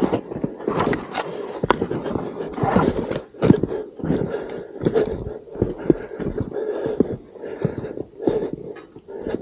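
Footsteps crunching through snow at a walking pace, an uneven run of sharp crunches.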